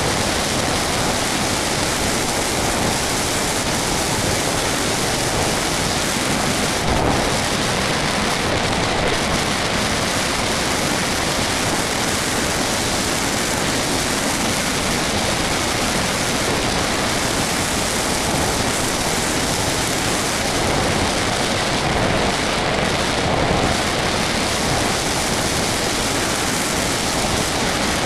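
Steady, loud rush of airflow over the microphone of a small camera riding on an RC model plane in flight, with no clear motor tone above it.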